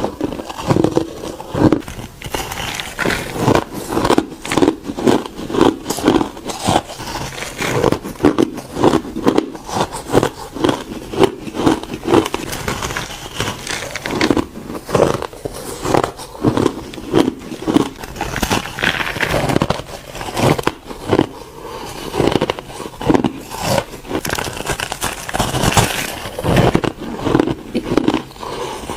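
Ice being bitten and chewed close to the microphone: a dense, continuous run of crisp crunches and cracks, several a second.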